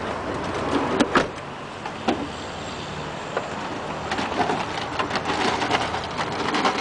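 Clunks and knocks of items being shifted and pushed into a car's cargo area, with two sharp knocks close together about a second in and a few lighter ones after, over a steady low hum.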